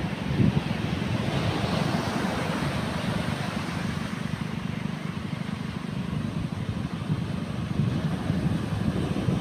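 Strong sea wind blowing on the microphone: a steady, gusty rumble, with waves washing underneath.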